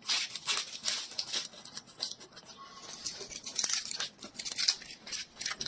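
Close-miked crunching and chewing of a crisp, fresh lettuce leaf, a quick irregular run of sharp crackles and snaps.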